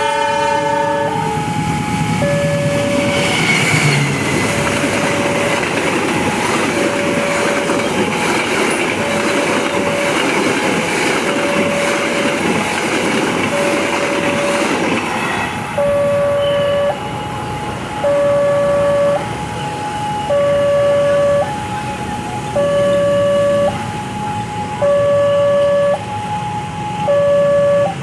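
A train sounds a short horn chord and passes close by, its wheels and carriages rushing past for about fifteen seconds before the noise drops away. Throughout, a level-crossing alarm keeps up a steady two-tone warning, alternating high and low about once a second, and it is left sounding alone after the train has gone.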